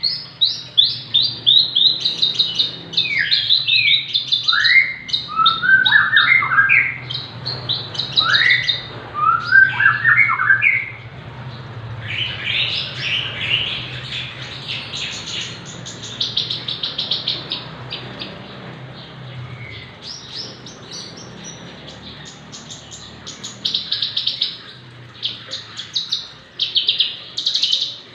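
Javan bush lark (branjangan) singing a long, unbroken, varied song. It opens with rapid chattering notes and rising slurred whistles, then moves into fast buzzy trills. A steady low hum sits underneath until about two-thirds of the way through.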